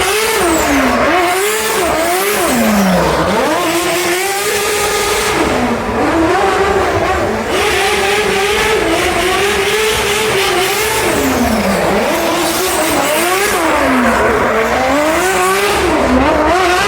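A car engine revving hard, its pitch dropping and climbing again over and over every second or two, with tyres squealing, as a drift car does on throttle.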